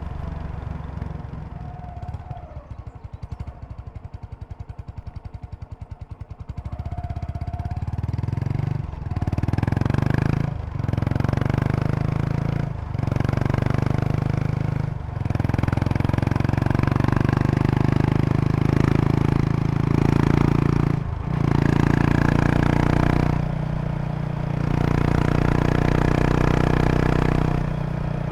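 Kawasaki Estrella RS's 250 cc single-cylinder engine with a Yamato aftermarket muffler, first putting along quietly at low revs with each exhaust beat distinct. About seven seconds in it opens up and pulls through several gears, the sound cutting out briefly at each shift, then runs on steadily under way.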